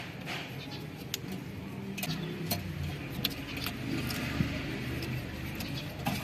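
Toyota 7K carbureted four-cylinder engine idling: a steady low running sound with scattered sharp light ticks over it.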